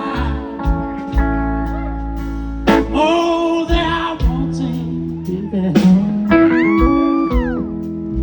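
Live blues trio playing a slow soul ballad: electric guitar fill with held and bent notes over bass and drums, the drum hits falling about every three seconds.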